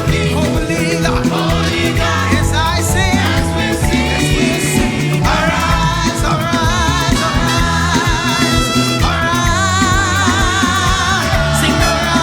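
Live gospel praise and worship music: a band with bass and drums playing an upbeat groove under wavering sung melody lines.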